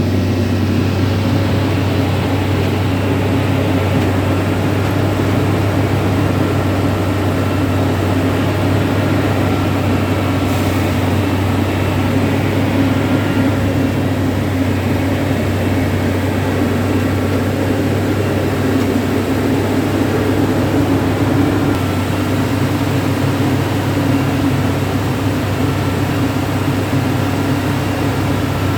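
Railway track tamping (packing) machine running: a loud, steady engine drone with a strong low hum and faint high whining tones.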